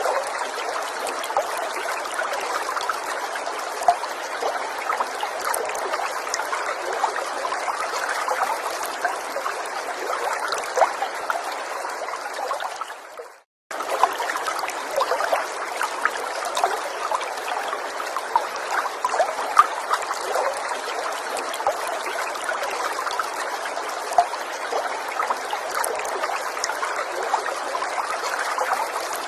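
Small stream trickling and splashing steadily over stones, with many small water splashes. About halfway through it fades out to silence for a moment and then comes straight back in.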